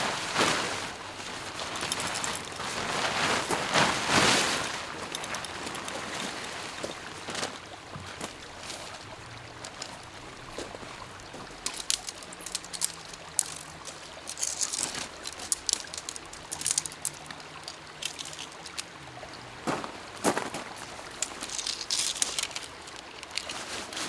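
Lake water sloshing and trickling, with a few louder swells in the first seconds, then scattered small splashes and drips.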